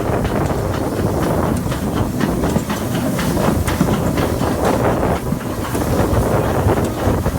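Train running: a steady rumble and hiss with frequent irregular clicks and knocks from the wheels and carriage.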